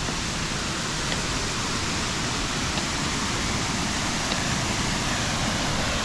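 Small waterfall pouring into a rock basin: a steady, even rush of water.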